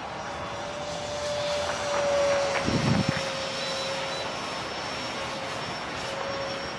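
Dr Mad 68 mm electric ducted fan with a 10-blade rotor, driving an RC jet in flight: a steady whine over a hiss. It swells louder about two seconds in as the jet passes, then eases back.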